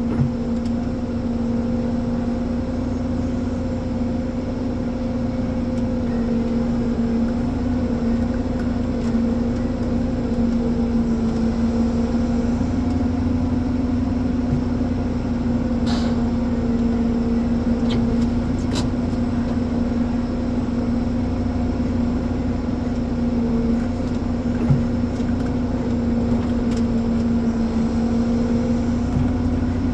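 Ponsse Elephant forwarder's diesel engine running steadily with an even hum, and a few sharp clicks a little past halfway.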